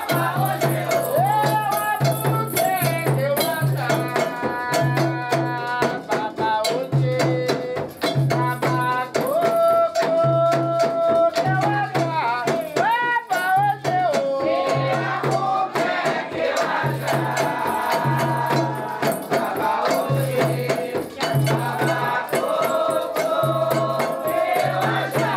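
Sacred Candomblé song for Xangô: voices singing held and gliding notes over a regular low drumbeat, with a shaken rattle keeping up a dense clicking pulse.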